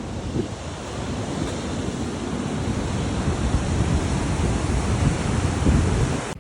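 Wind buffeting the microphone with gusty low rumble over a steady rushing wash, which cuts off suddenly at the end.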